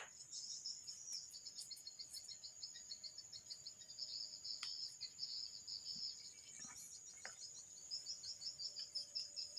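Insects chirping: a rapid, high, pulsing chirp over a steady high trill. A few faint clicks are heard about halfway through and again later.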